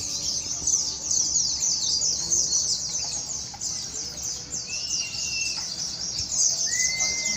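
Many white-eyes (pleci) singing together in a dense, continuous high-pitched twitter of rapid chirps. Two longer, lower whistled notes cut through, the second near the end.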